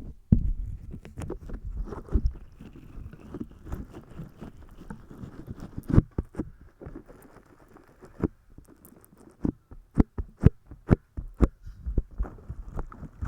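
Close-miked ASMR trigger sounds: a string of crisp clicks, more frequent and sharper in the second half, over soft low handling noise.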